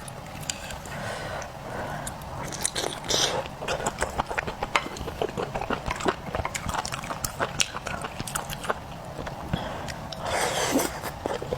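Close-up mouth sounds of a person chewing seafood, with many small sharp clicks and two longer noisy bursts, one about three seconds in and one near the end.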